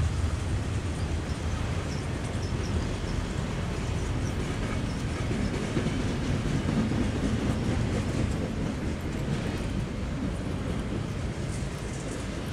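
Double-stack intermodal well cars of a freight train rolling past: a steady rumble of steel wheels on rail.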